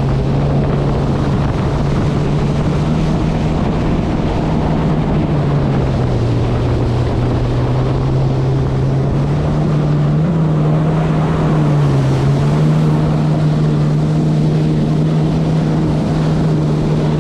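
Kawasaki SX-R 160 stand-up jet ski's 1500cc four-stroke engine running at speed under wind and water rush. The engine pitch sags about six seconds in and again around twelve seconds, then holds steady.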